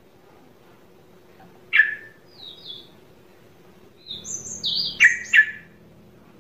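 A bird chirping. A single sharp falling chirp comes about two seconds in, then a couple of short high notes, then a quick run of high chirps ending in two loud falling chirps about five seconds in.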